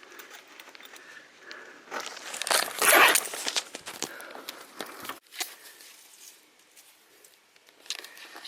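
Rustling and crunching noises, loudest in a burst about two to three seconds in, then fainter scattered rustles.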